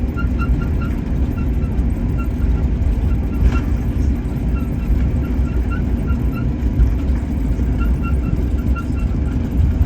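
Steady low cabin rumble inside an Airbus A321neo on the ground after landing, with faint short high notes repeating over it and a single click about three and a half seconds in.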